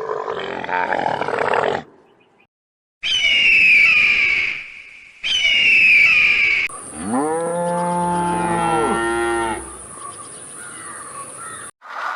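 A run of separate animal calls cut together: two shrill calls falling in pitch, then one long, deep call that rises and falls in pitch.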